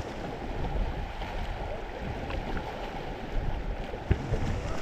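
Rushing river water with wind buffeting the microphone, a steady noisy wash with a low rumble, and a short knock about four seconds in.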